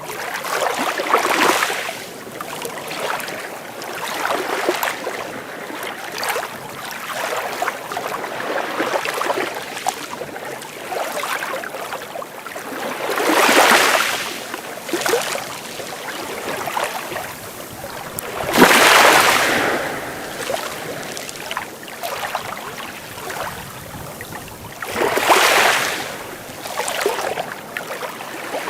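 Sea waves breaking and washing on the shore, a steady rush of surf with louder surges every few seconds. The biggest wave breaks about two-thirds of the way in.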